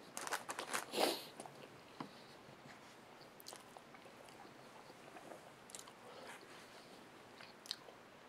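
A man chewing a mouthful of gyro roast beef sandwich close to the microphone. Wet mouth clicks and chewing sounds come thickest and loudest in the first second or so, then thin out to a few small clicks.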